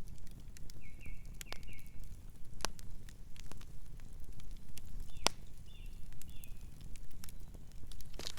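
Campfire crackling: irregular sharp pops and snaps over a steady low rumble. A few short high chirps come about a second in and again around five to six seconds in.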